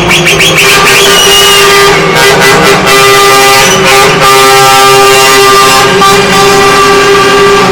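Truck air horns blasting loudly, one held steady note running almost throughout, with a fast pulsing high-pitched horn in the first second.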